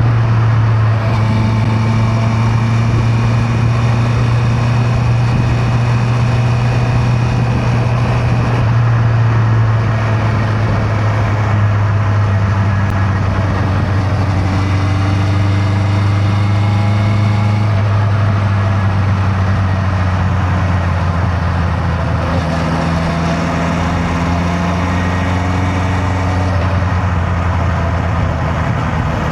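Honda CB650R's inline-four engine running at a steady cruising pace, its pitch drifting only slightly, with wind and road noise rushing over it.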